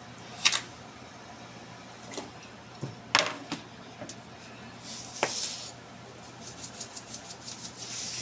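Kitchen utensils and cookware being handled: a few sharp knocks and clinks, then a quick run of light clicking and scraping near the end.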